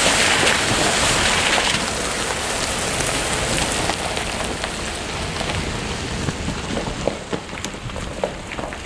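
Pickup truck driving on a gravel fire road: a steady hiss of tyres on gravel with scattered sharp ticks of stones, loudest at first and slowly fading.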